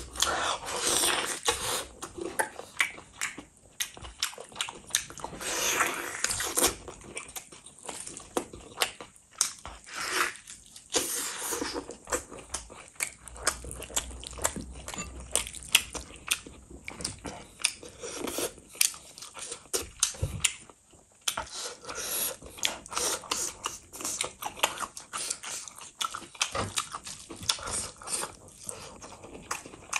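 A person chewing and biting into a gravy-covered mutton leg and rice eaten by hand, with many short, irregular clicks.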